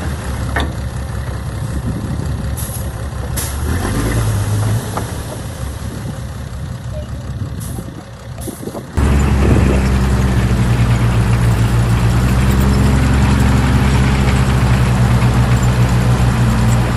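Diesel engine of heavy earthmoving machinery running, with a few sharp clicks. About nine seconds in, it cuts abruptly to a louder, steadier engine drone.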